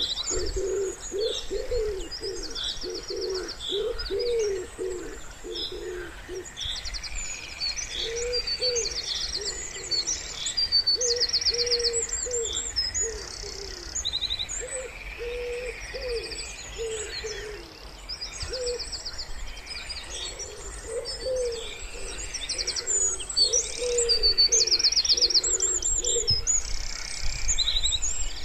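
Wood pigeon cooing in repeated phrases, over several small songbirds singing high chirps and rapid trills.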